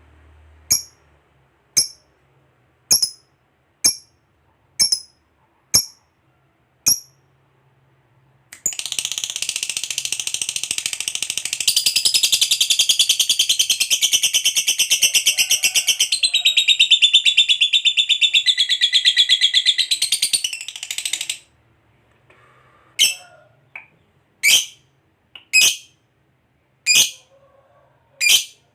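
Lovebird calling: sharp single chirps about once a second, then a long, very rapid rattling trill (the prized 'ngekek panjang') lasting about twelve seconds, then spaced chirps again.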